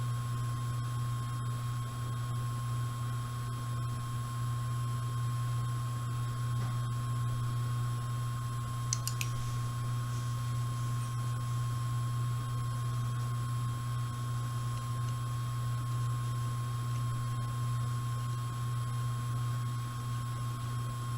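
Steady hum with a high-pitched whine from a washing machine running, picked up on the microphone. A couple of faint clicks about nine seconds in.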